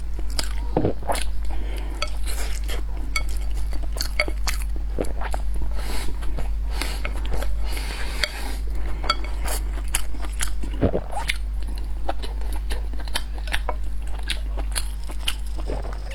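Close-miked eating: utensils clicking and scraping against a bowl, with biting and chewing of braised pork and rice, over a steady low hum.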